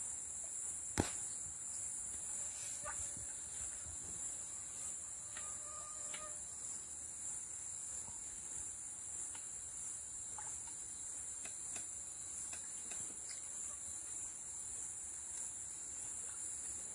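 Steady, high-pitched chorus of insects in flooded forest, with a single sharp click about a second in.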